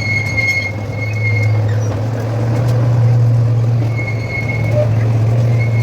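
Small park toy train running on its track: a steady low hum from the train, with a thin high whine that comes and goes, likely the wheels squealing on the rails.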